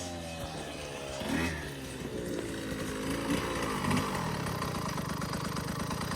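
A 65cc dirt bike's two-stroke engine coming off the throttle, its pitch falling with a couple of brief blips, then settling into a steady idle about four seconds in.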